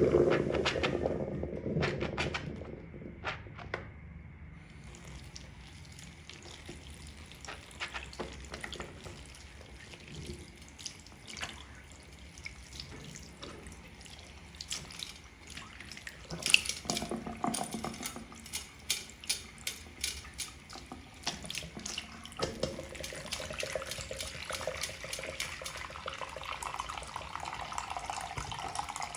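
Makeup sponges being squeezed and rinsed in soapy water: wet squelches and short clicks over splashing and running water, with a quick run of squelches in the middle.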